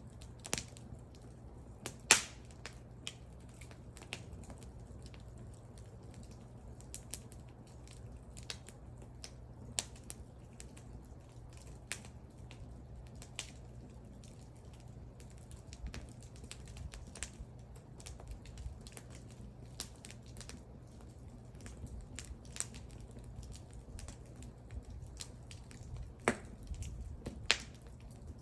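Wood fire crackling: irregular sharp pops and snaps over a low steady rumble of the burning fire, with a louder pop about two seconds in and two more near the end.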